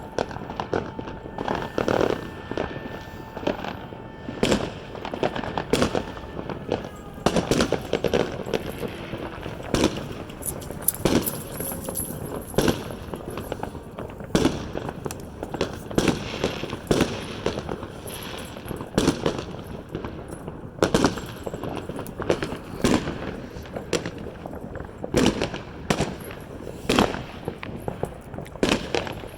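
Fireworks going off: a long run of sharp bangs at uneven intervals, often several a second.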